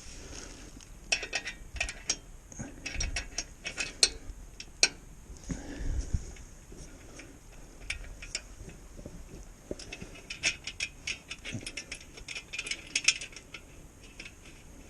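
Hand socket ratchet clicking in quick runs as bolts are tightened. The runs come about a second in, around three to five seconds in, and again from about ten to thirteen seconds.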